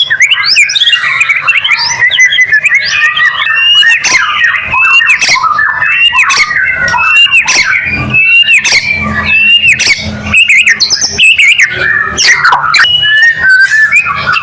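White-rumped shama singing without pause: a rapid, varied stream of whistled notes, rising and falling glides and sharp clicking notes.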